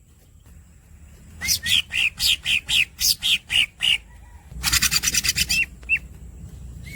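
Greater green leafbird (cucak ijo) singing: after a moment of quiet, two rapid runs of sharp, falling squeaky notes, about six a second, then a few single notes near the end.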